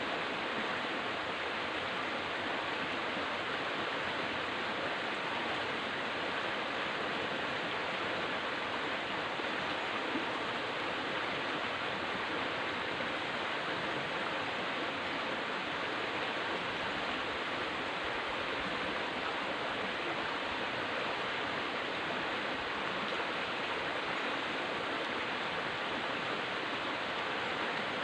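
River water flowing, a steady rushing noise that does not change.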